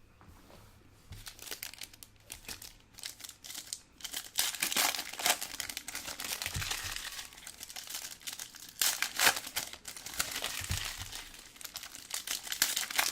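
Plastic wrapping on trading card packs being torn open and crinkled by hand, in bursts of crackling that grow louder from about a second in.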